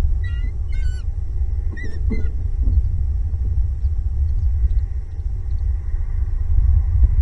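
Steady low rumble throughout, with a bird's short, high pitched calls three times in the first two seconds.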